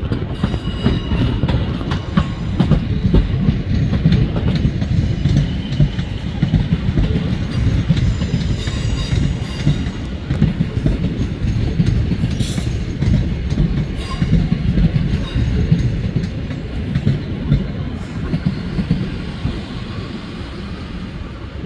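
ScotRail Class 156 diesel multiple unit running past close by, its underfloor diesel engines running and its wheels clattering over rail joints and points. The sound fades over the last few seconds as the train draws away.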